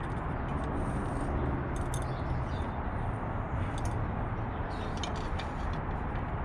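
Faint light clicks and ticks from a bicycle's brake or gear cables and parts being handled during teardown, over a steady background hiss and hum.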